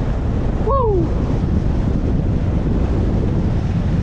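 Strong wind buffeting the microphone, a steady low rumble, with one short pitched sound falling in pitch just under a second in.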